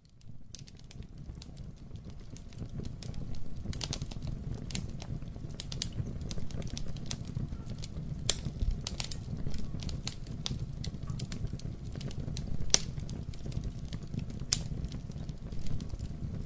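Campfire burning: irregular crackles and a few sharper pops of the wood over a low, steady rumble of the flames, fading in over the first few seconds.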